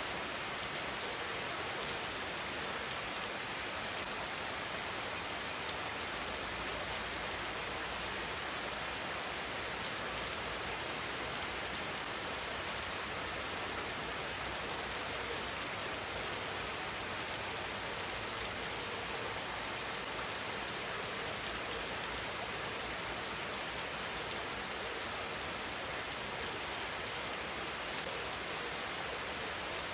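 Steady rain falling, with many small drop impacts ticking through an even hiss.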